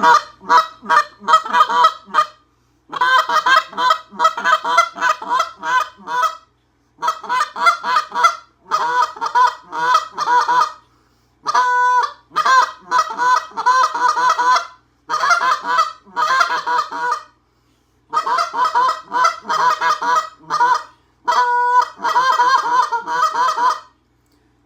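Hand-blown goose call run through rapid clucks and honks in loud runs of a few seconds each, broken by short pauses. Two long, steady drawn-out notes come about halfway through and again near the end.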